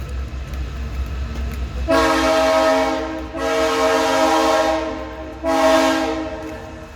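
Freight train's locomotive air horn sounding three blasts, the first two long and the third shorter, over the train's steady low rumble.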